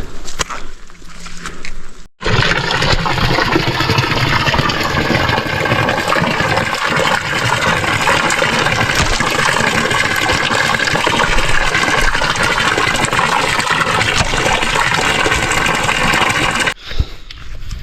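Loud, steady rushing of running water, like a stream. It cuts in abruptly about two seconds in, after a few footsteps, and cuts off abruptly near the end.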